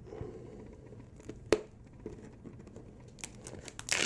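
3D-printed Nylon 618 part being flexed and pulled by hand, giving a sharp click about a second and a half in and a cluster of crackles near the end.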